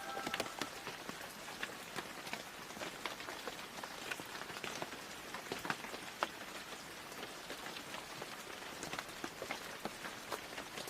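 Rain falling steadily, with many separate drops ticking sharply on nearby surfaces.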